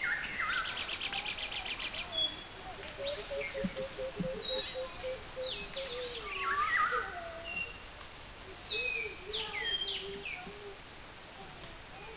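Several birds chirping and calling over one another, with short falling high notes throughout. A fast high trill sounds in the first two seconds, and a lower run of evenly repeated notes runs through the middle.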